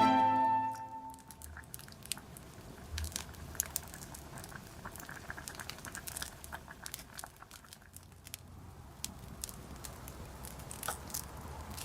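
Wood campfire crackling, with scattered sharp pops and clicks over a low steady rumble.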